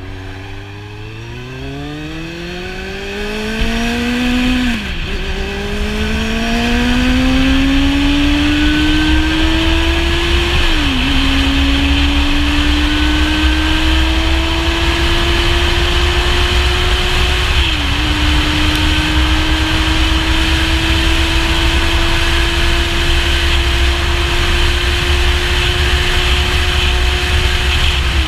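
Kawasaki Z750's inline-four engine under hard acceleration, its pitch climbing through the revs and dropping briefly at each upshift: three shifts, with each higher gear climbing more slowly, and another shift right at the end. Wind rush on the microphone grows louder as speed builds.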